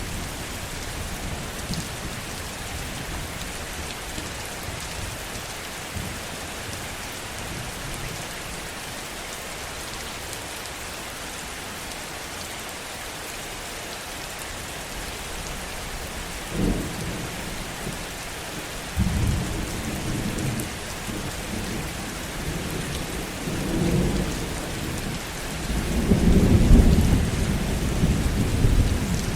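Steady heavy rain falling, with low thunder rumbling in from about halfway through and swelling to its loudest near the end.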